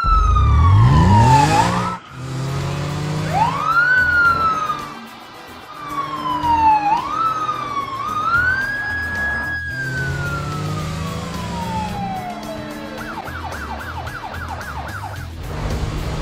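Emergency-vehicle siren sound effect wailing in long rising and falling sweeps, then switching to a fast warble of about four or five cycles a second near the end, over a low rumble.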